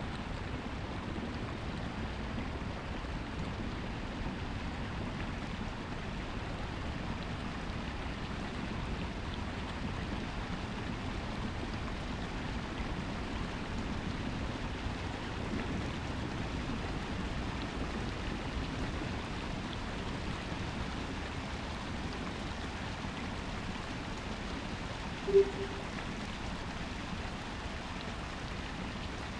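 Steady rushing noise with no distinct events, interrupted once about 25 seconds in by a single short low beep.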